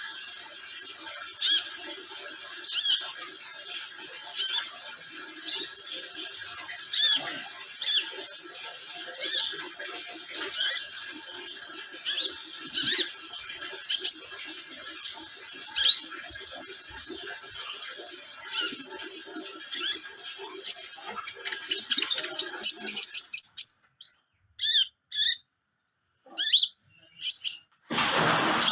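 A bird giving short, sharp, high calls about every second and a half over a steady faint hum, quickening into a rapid run of calls near the end. Then the sound drops out in gaps between a few separate calls, and a loud burst of noise comes just before the end.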